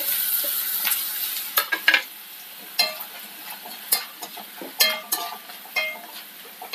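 Cut dried red chillies sizzling in hot coconut oil in a kadai. The sizzle is loudest at first and settles to a softer hiss as the chillies are stirred with a metal ladle, which clinks against the pan about once a second.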